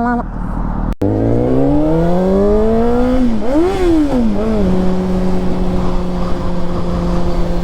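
Honda CBR600RR inline-four with a Yoshimura exhaust, heard from the rider's helmet camera. The audio breaks off for an instant about a second in. The engine then pulls up through the revs for about two seconds, drops at a shift, rises and falls quickly once and then briefly again, and settles to a steady pitch while cruising.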